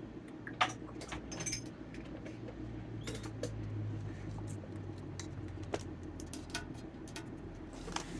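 Scattered light clicks and taps, a few sharper ones, over a steady low hum.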